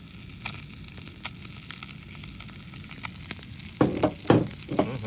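Limpets in their shells sizzling in butter in an iron skillet, a steady frying hiss with small crackles. Several louder bursts come in the last second or so.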